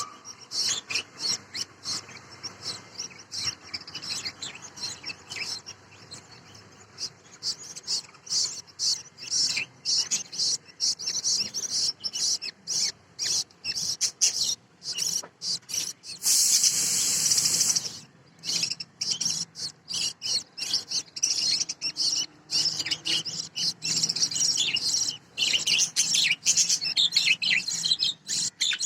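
Budgies chirping and chattering in quick, high-pitched bursts close to the microphone. A loud rushing noise cuts in for about a second and a half just past the middle.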